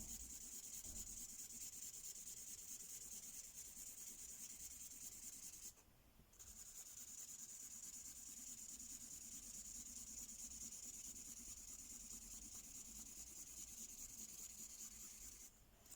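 Ink marker rubbing back and forth on a paper colouring page: a steady soft scratching, with one short pause about six seconds in, stopping just before the end.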